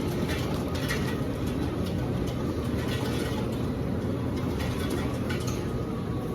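Steady low background rumble with a few faint clicks and rustles.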